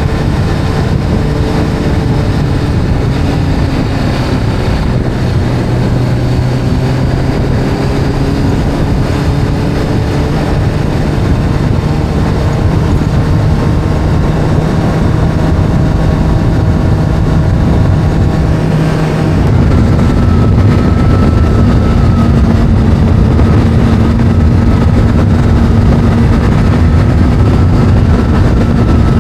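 Motorcycle engine running at a steady pace, its pitch drifting slightly. About two-thirds of the way in, the revs step up and it gets louder, then holds there.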